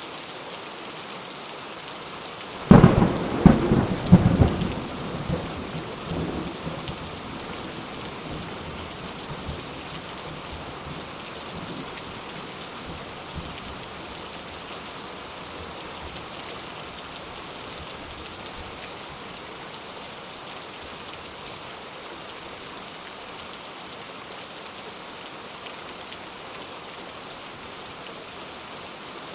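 Steady rain with a close thunderclap about three seconds in: a sudden crack and a few crackling peals in quick succession, fading into a low rumble over the next few seconds.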